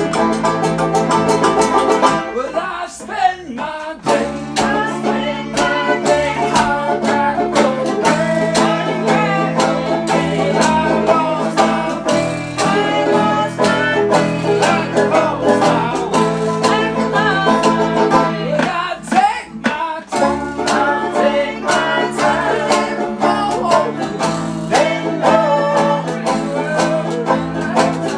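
A string band playing a bluegrass-style tune, with fast banjo picking over guitar. The low end drops out briefly about three seconds in and again near twenty seconds.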